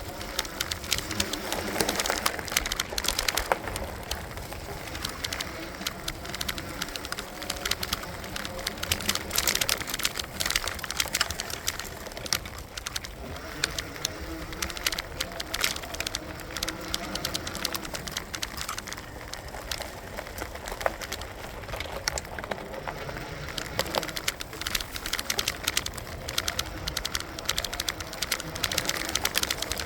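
Electric bike being ridden: a steady running noise with dense, irregular rattling and knocking.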